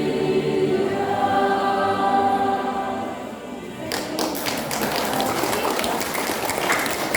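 Church choir singing and holding a final chord that fades out about three and a half seconds in. It is followed by a noisy stretch of scattered taps and knocks.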